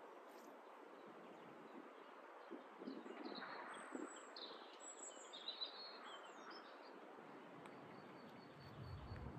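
Faint outdoor ambience with a few small birds chirping and trilling in the middle, high and light. A low rumble rises near the end.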